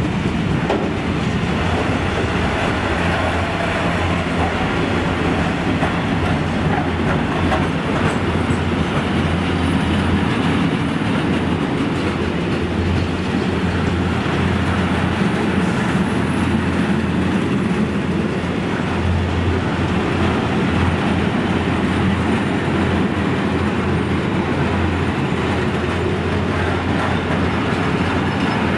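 A freight train's wagons loaded with steel coils rolling past steadily, wheels running on the rails, with no break for the whole length of the train.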